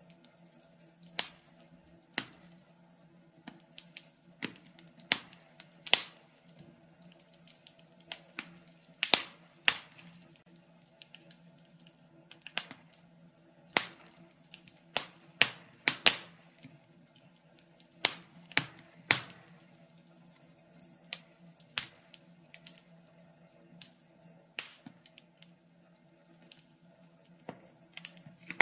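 Wood fire in a fireplace crackling, with irregular sharp pops and snaps, some clusters of several quick pops, over a faint steady hum.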